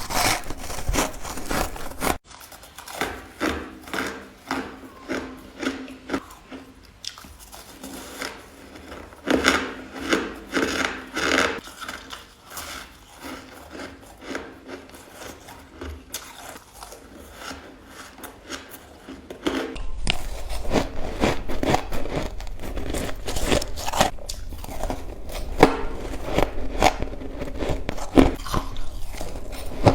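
Ice being bitten and crunched between teeth close to the microphone: rapid runs of sharp cracks and crunches, louder and denser over the last third.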